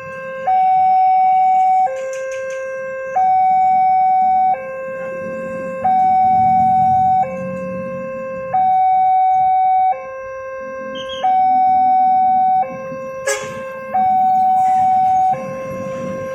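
Railway level-crossing warning alarm sounding an electronic two-tone high-low signal, each tone held about a second and a half and repeating, the warning that a train is approaching and the barriers are closing. A low rumble runs underneath, and a single sharp click comes about 13 seconds in.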